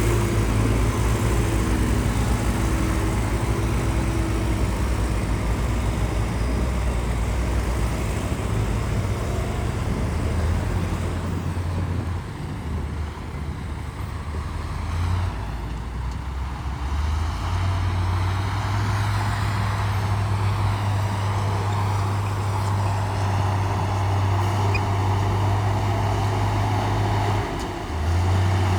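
Heavy diesel earthmoving machinery running: a steady, low engine drone that drops in level for a few seconds midway and dips briefly near the end.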